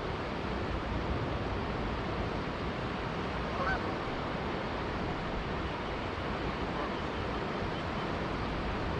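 Steady rush of a flowing river, with a single short Canada goose honk about three and a half seconds in.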